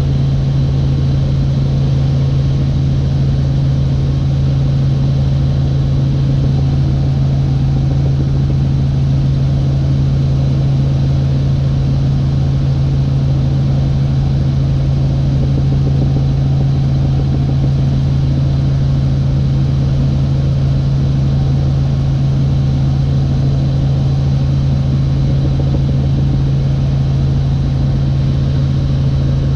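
Helicopter engine and rotors heard from inside the cabin in flight: a loud, unchanging drone with a strong low hum.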